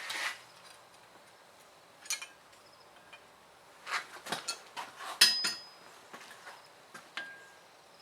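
Scattered light metal clinks and taps, with a sharper strike a little past the middle that rings briefly and another short ring near the end.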